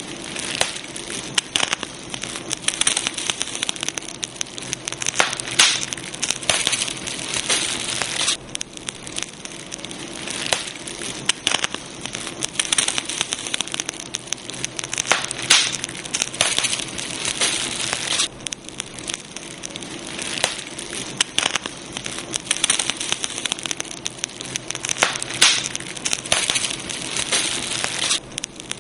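Campfire crackling: a wood fire burning with dense, irregular pops and snaps over a steady hiss.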